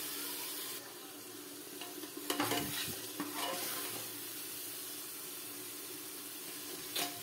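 Onion-and-spice paste sizzling in hot oil in a pressure cooker while a steel spoon stirs it, with a few clicks of the spoon against the pot about two to three seconds in and once near the end.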